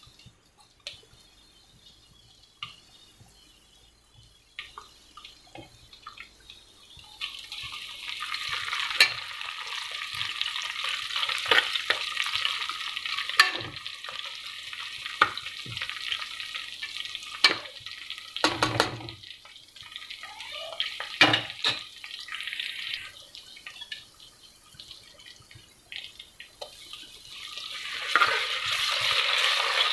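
Onions and green chillies frying in oil in an aluminium pressure cooker, sizzling while a spoon stirs and clicks against the pot. The sizzle starts about seven seconds in, fades and returns, and grows louder near the end as ginger garlic paste goes into the hot oil.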